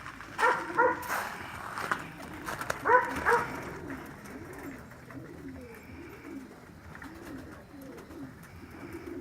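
Racing pigeons cooing in the loft: a run of low, rising-and-falling coos repeated about twice a second, with a few louder sounds in the first three seconds.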